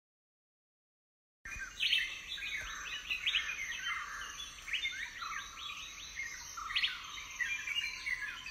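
Birds chirping busily, many short quick calls overlapping, starting about a second and a half in after a moment of dead silence.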